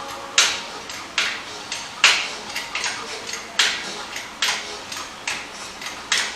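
Hand-pumped hydraulic jack being worked to lift the engine: a sharp metallic clack on each pump stroke, about one every 0.8 seconds.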